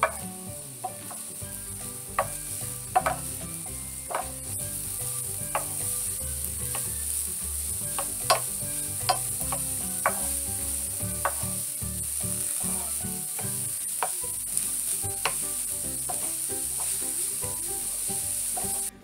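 Riced cauliflower and melted cheese sizzling steadily in an electric skillet while a wooden spatula stirs and scrapes through it, tapping the pan with sharp clicks at irregular intervals.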